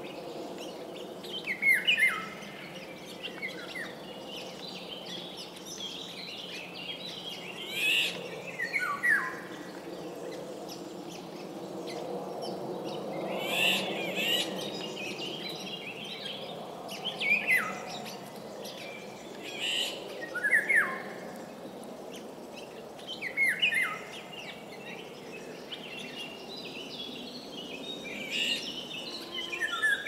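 Songbirds singing: short phrases of whistled notes sweeping downward, repeated every few seconds, with a steady low hum underneath that swells around the middle.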